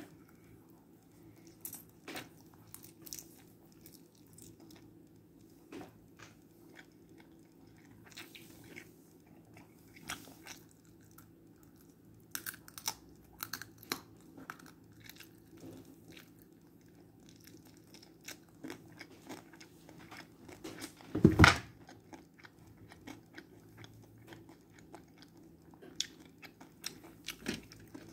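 A child chewing a mouthful of rice close to the microphone, with short mouth clicks scattered through and one much louder thump about twenty-one seconds in.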